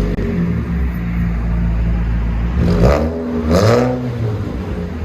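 2014 Ford Fusion's 2.5-litre four-cylinder engine through a straight-pipe exhaust, muffler and resonator removed, idling just after starting, then revved in two quick blips near the middle.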